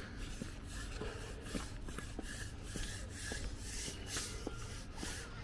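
Footsteps walking at a steady pace, a soft tap about every half second, over a steady low rumble.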